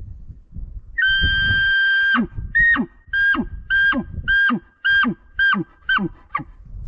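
Phelps diaphragm elk call (black reed) blown as a bull elk bugle. One high whistled note is held for about a second and breaks downward, then about eight short whistled notes follow at about two a second, each falling away low.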